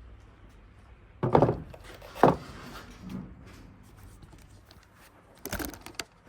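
Knocks and thuds of objects being handled: two loud knocks about a second apart, then another cluster of knocks near the end.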